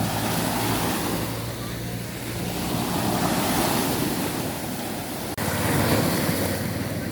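Sea waves washing in, swelling and falling every few seconds, with wind buffeting the microphone and a faint steady low hum underneath.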